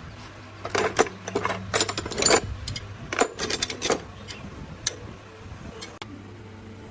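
Irregular sharp clicks and knocks of hand tools on metal engine parts, dense for the first few seconds and then sparser, over a steady low hum.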